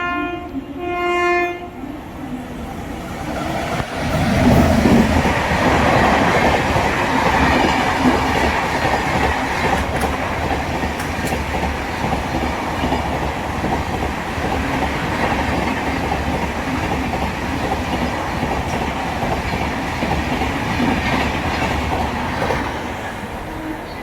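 Electric locomotive horn sounds a blast in the first second and a half, then an express train passes at speed from about four seconds in: a loud steady rush and rumble of wheels on rail with clickety-clack, fading away near the end.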